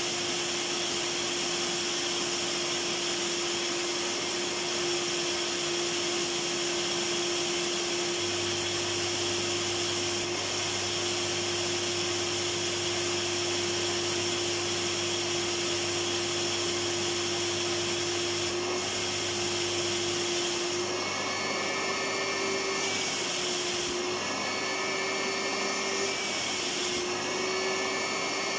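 Electric vacuum cleaner running continuously: a steady motor whine over a loud rush of air. From about two-thirds of the way in, the whine wavers slightly in pitch every couple of seconds.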